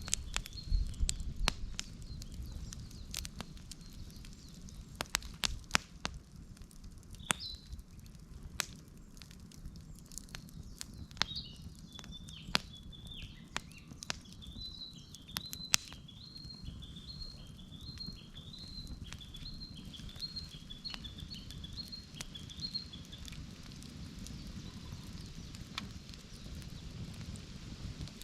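Wood campfire crackling, with sharp scattered pops over a low steady rumble. In the middle a bird calls in a quick run of short falling chirps, repeated for about ten seconds.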